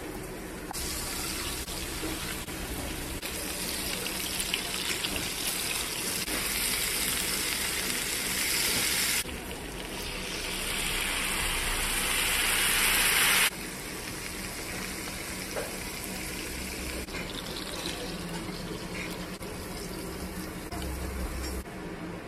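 Butter and salmon fillets sizzling in a nonstick frying pan, a dense steady hiss. It jumps in level suddenly a few times, is loudest for a few seconds near the middle, then drops to a fainter hiss.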